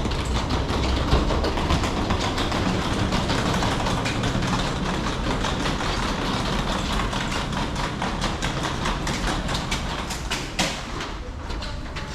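A rail train running, most likely a metro train: a steady rumble with rapid clicks from the wheels and track, and a sharp click about ten and a half seconds in.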